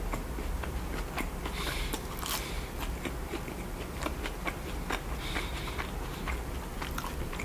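Close-miked mouth chewing a crinkle-cut French fry: a continuous run of small wet clicks and crackles.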